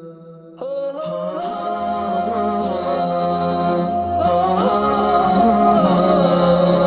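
A man's voice in slow melodic Quranic recitation, drawing out long held notes that bend gently in pitch. A short break comes about half a second in, then a new phrase that swells louder.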